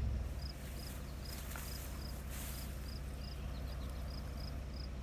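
An engine idling with a steady low hum, while insects chirp in short high pulses about twice a second.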